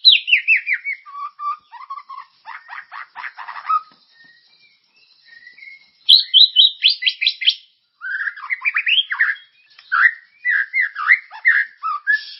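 Songbird song from a masteran training track for white-rumped shamas. It opens with a rapid run of falling whistled notes, goes quiet for a brief lull about four seconds in, then returns with loud repeated sharp notes and varied warbling phrases.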